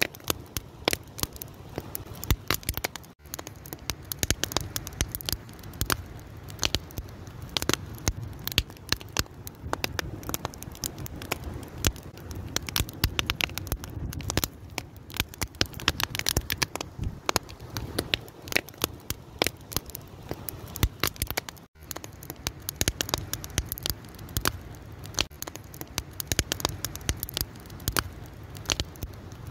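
Wood fire crackling and popping continuously with dense, irregular sharp snaps over a low hiss, briefly dropping out for an instant twice.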